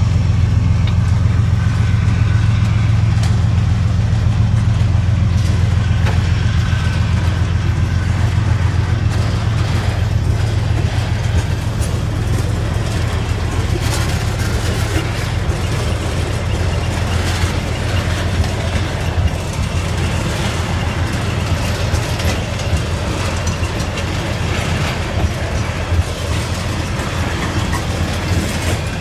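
Diesel-hauled freight train passing, with a heavy, steady engine rumble that fades slightly towards the end.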